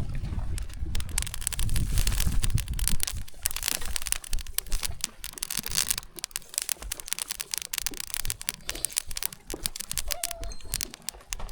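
Newly lit campfire crackling, with a dense run of sharp snaps and pops as the fire catches. A low rumble sits under it for the first few seconds.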